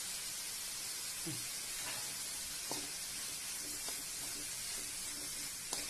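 Chopped banana stem, dal and ground coconut sizzling steadily in coconut oil in a metal wok, with a few light scrapes of a metal spoon against the pan, sharpest near the end.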